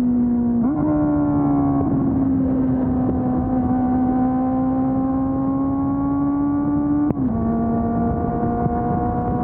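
2020 Honda CB400 Super Four's inline-four engine through its stock exhaust, riding along. The revs step up briefly about a second in and settle back, climb slowly, then drop with a click at a gear change about seven seconds in.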